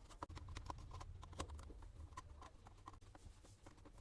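Faint, irregular small clicks and taps of a screwdriver working screws out of a small Bluetooth speaker's plastic housing, with a low rumble of handling in the first half.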